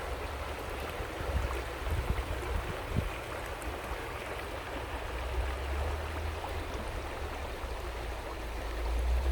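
Flowing water, a stream or river, rushing steadily with a deep low rumble.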